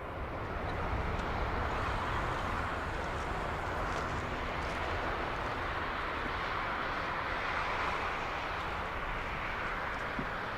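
Airbus A340-300's four CFM56 jet engines running at high power, a steady jet noise that grows louder at the start and then holds.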